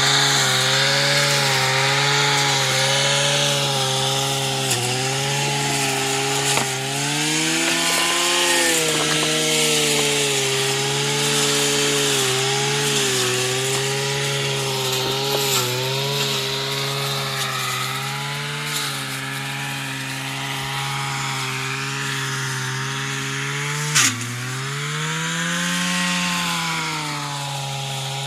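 Robin two-stroke brush cutter engine running at high speed throughout, its pitch wavering and swinging up twice, a few seconds in and near the end. A sharp click sounds shortly before the end.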